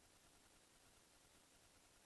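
Near silence: faint recording hiss.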